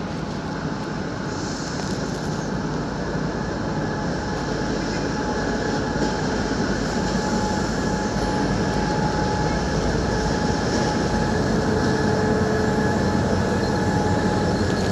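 Abu Qir train running on the rails: a steady rumbling clatter that grows slowly louder, with a faint thin wheel squeal in the middle and later part.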